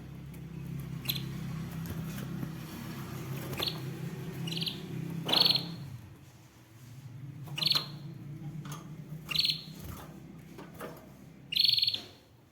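Canary giving short, separate high chirps and brief trilled notes, about seven in all, the last near the end the loudest, over a low steady hum.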